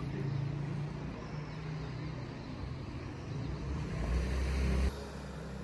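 Street ambience with a motor vehicle's engine running: a steady low hum that grows louder near the end and then cuts off abruptly about five seconds in.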